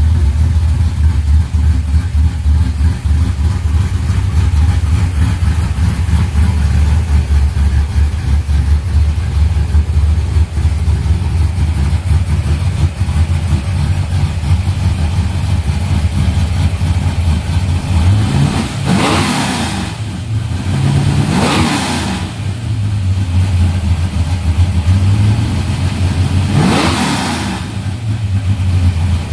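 First-generation Chevrolet Camaro's engine idling loudly with a deep, steady note, then revved three times: two quick revs close together a bit past the middle and a third a few seconds later, each climbing and falling straight back to idle.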